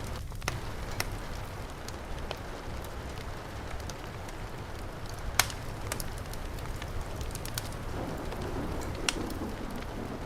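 Steady heavy rain mixed with a crackling fireplace fire: a continuous hiss with sharp pops and snaps scattered through it, the loudest about five seconds in and another near nine seconds.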